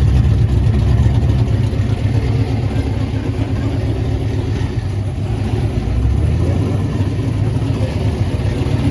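Car engine running at idle close by, a steady low rumble.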